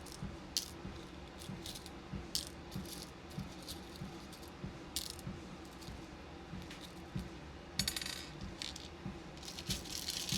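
Small beads clicking and rattling as they are sorted, with a short rattle about eight seconds in and a busier run of clinks near the end. Beneath them are steady footfalls on a walking pad, about two a second, over the pad's steady hum.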